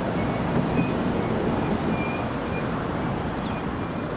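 Transperth A-series electric train moving slowly beside the platform: a steady rumble, with faint short high tones coming and going.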